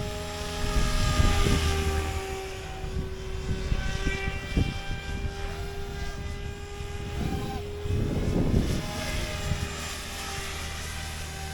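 Radio-controlled helicopter in flight, its rotor and motor giving a steady whine that shifts slightly in pitch around the middle, with two gusts of low rumble, about a second in and about eight seconds in.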